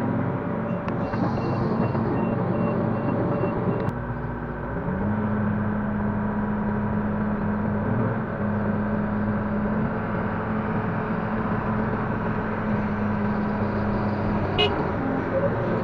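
Link-Belt 145X3E hydraulic excavator's diesel engine running steadily, its note shifting and settling again about four to five seconds in. A faint rapid beeping sounds during the first four seconds.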